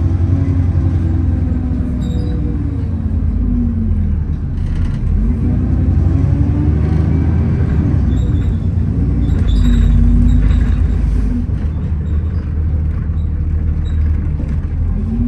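Alexander Dennis Enviro400 double-decker bus heard from inside while driving: a steady low engine and road rumble with a loud axle whine that rises and falls in pitch as the bus speeds up and slows down.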